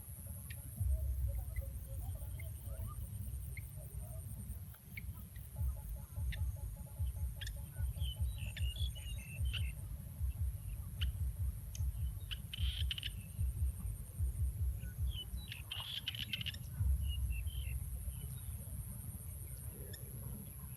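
Gusty low rumble of wind buffeting the microphone, with a few short bird chirps about eight, twelve and sixteen seconds in and a faint steady high-pitched tone.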